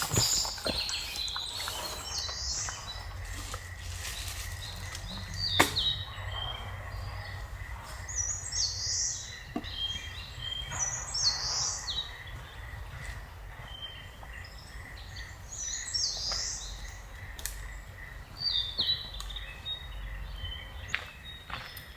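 Forest birds singing short repeated phrases every few seconds over a low outdoor rumble, with a faint steady pulsing high tone underneath. A sharp click about five seconds in, and a few fainter ones.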